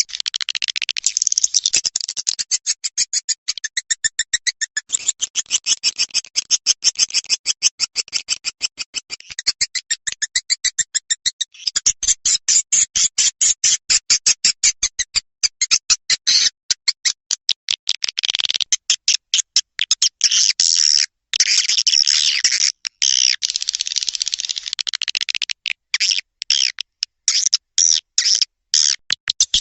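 Swiftlet lure call for a bird house: rapid, high, chirping twitters in long unbroken trains, broken by short pauses now and then.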